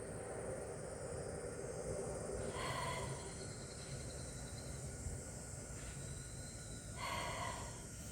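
A person's slow breathing during a yoga pose: two audible exhales about four and a half seconds apart, over a steady outdoor background hiss.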